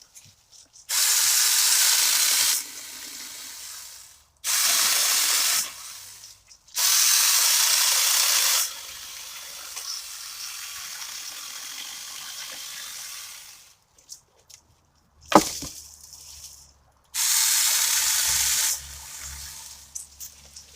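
Saker 20V cordless mini chainsaw cutting through a 3-inch log in four hissing bursts of a second and a half to two seconds each, with the motor running more quietly between cuts. A single sharp knock comes about fifteen seconds in.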